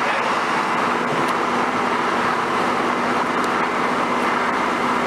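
Cabin noise inside a Northern Class 150 Sprinter diesel multiple unit running between stations: a steady rush of wheels on the track with the underfloor diesel engine's drone. A steady hum joins in about a second and a half in.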